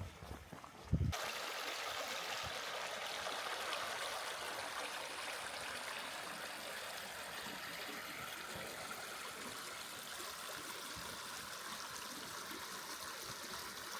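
Footsteps for about a second, then the steady rush of stream water, which starts suddenly.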